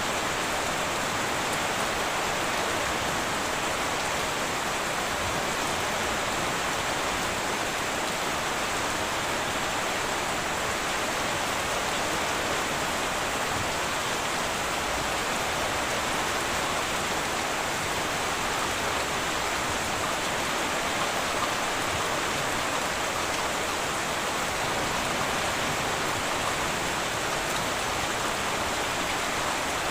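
Heavy rain falling steadily on a tin roof, an even hiss that does not let up.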